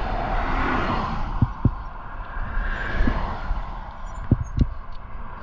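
Steady rushing road noise from passing highway traffic, with five short dull thumps spread through it.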